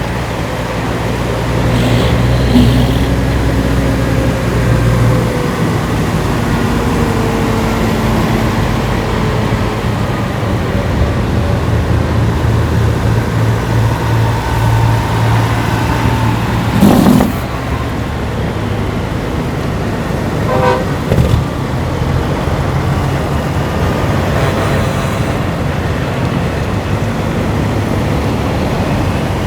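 Semi trucks' diesel engines running, with truck horns blowing several times, held long a few times and in a quick run of short honks about two thirds of the way through.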